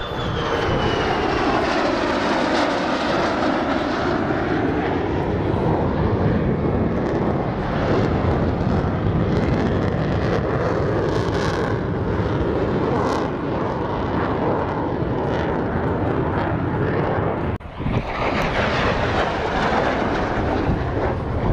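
Fixed-wing airplane engine noise, loud and continuous, with a slow sweep in pitch that falls and rises again in the first few seconds as the plane passes; the sound drops out briefly about 17 seconds in.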